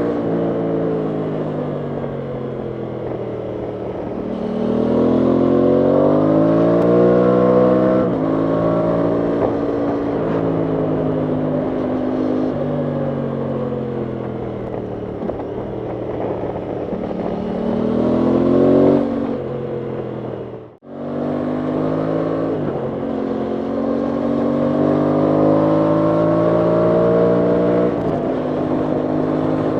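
Aprilia Tuono 660 Factory's parallel-twin engine under way, the pitch climbing as it accelerates and falling sharply at upshifts several times. The sound dips out briefly about two-thirds of the way through, then the engine pulls up through the revs again.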